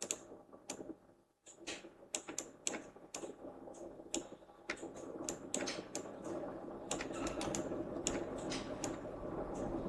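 Irregular taps and clicks of computer keys being pressed. A low background rumble rises in the second half.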